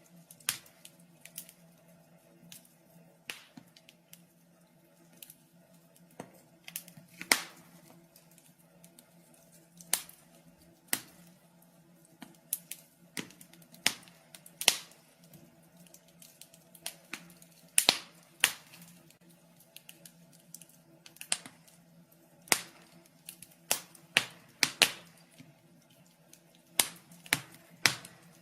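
Wood fire crackling in a fireplace: irregular sharp pops and snaps, about one or two a second at uneven intervals, some louder than others.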